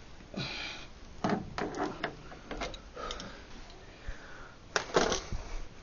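Irregular knocks and clatters from things being handled, with a brief scraping rustle near the start and the loudest clunk about five seconds in.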